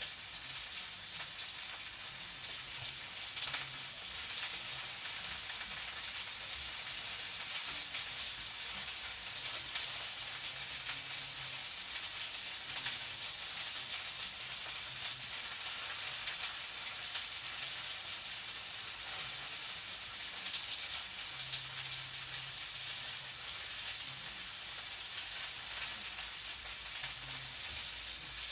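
Food frying in a pan: a steady sizzling hiss dotted with fine crackles, over a faint low hum that comes and goes.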